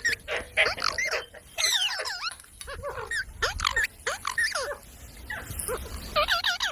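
Parrot calling: a rapid run of short squawks and chirps that sweep up and down in pitch, with brief gaps.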